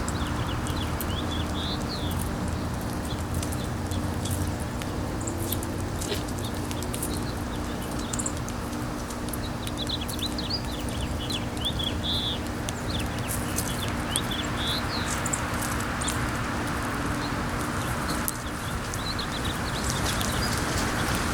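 Small birds chirping in short scattered calls over steady wind noise, with frequent light clicks and a steady low hum underneath.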